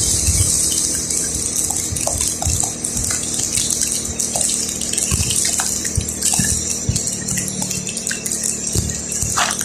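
A vehicle driving in rain: a steady hiss of rain and wet road, over a low steady engine hum, with scattered light thumps and clicks.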